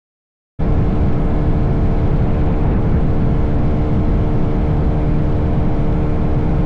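Motorcycle riding at a steady speed: engine running evenly under heavy wind rumble, cutting in suddenly about half a second in after silence.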